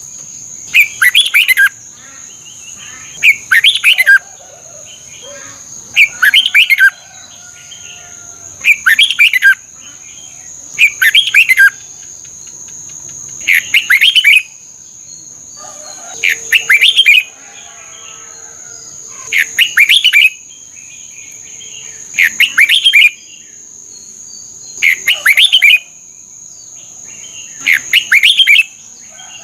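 Red-whiskered bulbul singing a short, loud, warbled phrase about every two and a half seconds, with softer chirps between phrases. A steady high-pitched whine runs underneath.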